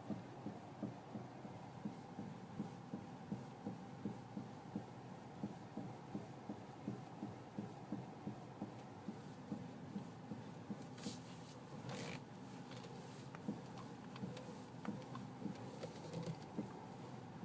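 Dull knocking from the front end of a BMW X3 F25, repeating evenly about two to three times a second, which the owner suspects comes from the steering rack. A short clatter breaks in about two thirds of the way through.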